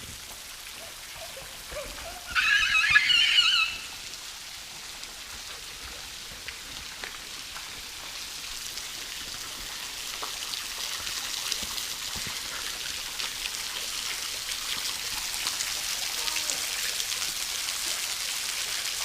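Falling water pattering like rain from a small waterfall, a steady hiss that grows gradually louder. A brief high-pitched cry is heard about two seconds in.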